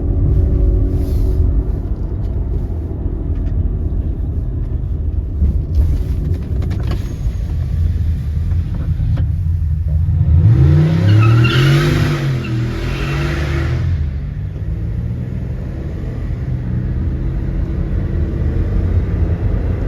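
Car engine rumbling steadily. About ten seconds in, it revs up and back down over a few seconds, along with a louder rush of noise.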